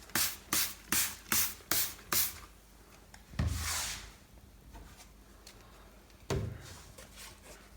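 Trigger spray bottle of degreaser squirted repeatedly onto fireplace glass, about six quick hissing squirts in a steady rhythm, followed by rubbing sounds as the glass is scrubbed.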